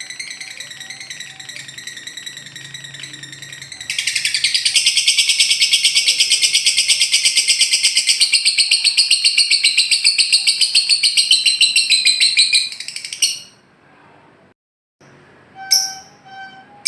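Lovebird ngekek: a long, loud, rapid chattering trill that starts about four seconds in after softer chatter and runs for about eight seconds before stopping abruptly. A few sharp chirps follow near the end.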